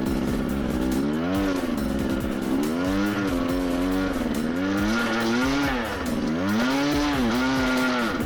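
Husqvarna TE250i 250 cc two-stroke single-cylinder engine revving up and down as the dirt bike is ridden. Its pitch rises and falls about five times as the throttle is opened and closed.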